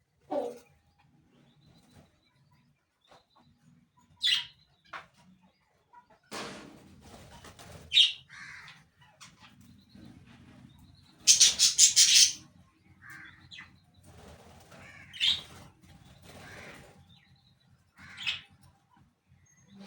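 Birds giving scattered short chirps and calls, with a quick burst of wing-flapping about eleven seconds in.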